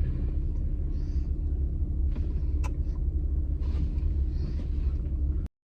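Steady low rumble of a car heard from inside the cabin as it backs into a parking space, with a couple of faint clicks; it cuts off suddenly near the end.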